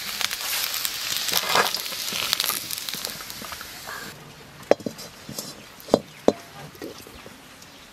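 Potato slices and drumstick pieces sizzling and crackling as they fry in oil in a steel kadai. The sizzle cuts off suddenly about four seconds in, followed by a few sharp metallic clinks.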